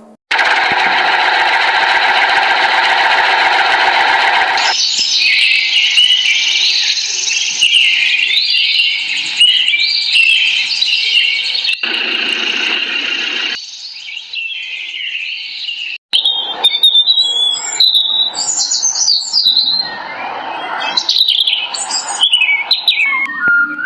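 Birds chirping and singing, with quick short calls and pitch glides, broken by several abrupt cuts as if spliced from separate clips. The first few seconds hold a steady, hissing noise before the birdsong begins.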